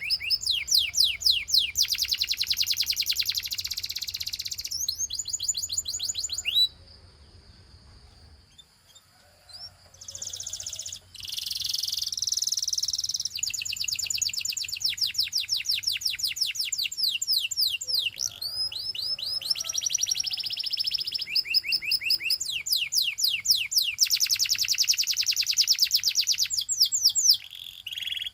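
Domestic canary singing in long, rapid trills of repeated high notes. The song breaks off about seven seconds in and picks up again a few seconds later.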